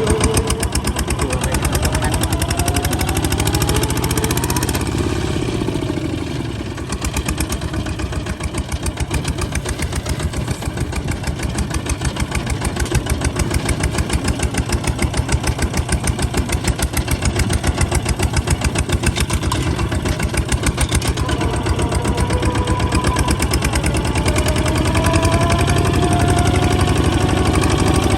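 Kubota ZT155 single-cylinder diesel engine of a tractor running, a steady rapid chugging of firing strokes. A rising whine sounds over it in the first few seconds and again near the end.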